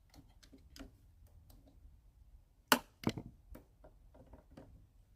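Light clicks and taps of tools and small metal parts being handled while a lawnmower carburetor is taken off, with two louder sharp knocks close together about halfway through.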